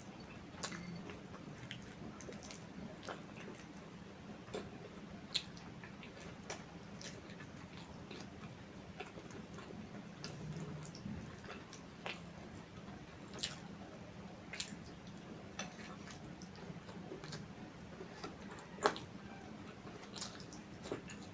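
Close-up chewing and eating sounds: irregular soft mouth clicks and smacks, a few louder ones near the end, over a faint steady low hum.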